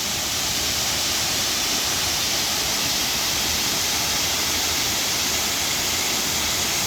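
Tall waterfall crashing into its pool with a steady, even rush of white noise.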